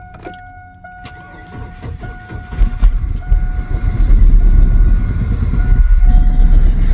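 2000 Chevy S-10's four-cylinder engine being started: it cranks briefly, catches about two and a half seconds in, then runs rough with a miss that new spark plugs have not cured.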